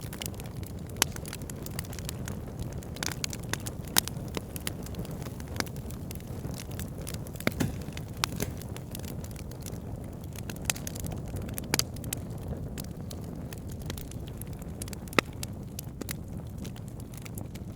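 Wood logs burning with a steady low rumble and frequent sharp crackles and pops, a handful of them much louder than the rest.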